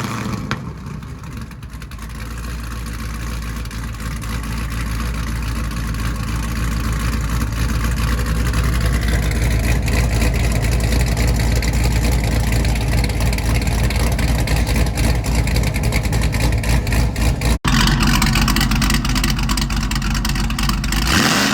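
Camaro ZL1's supercharged V8 running just after start-up through a new Corsa muffler and 3-inch X-pipe exhaust, a steady deep rumble that grows gradually louder over the first several seconds. The sound drops out for an instant about two thirds through.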